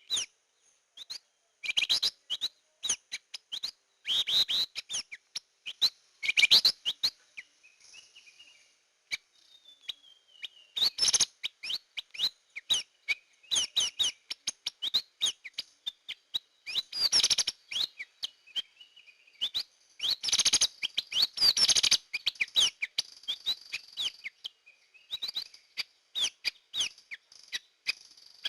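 Drongo (srigunting) song played as a lure call: quick runs of sharp, clicking chirps and short whistles in bursts a second or two long, with a few gliding whistles and brief pauses between bursts.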